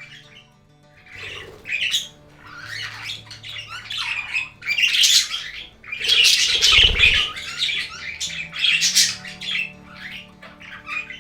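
A flock of budgerigars chattering and squawking in short, repeated high calls over soft background music, with a brief low rumble about seven seconds in.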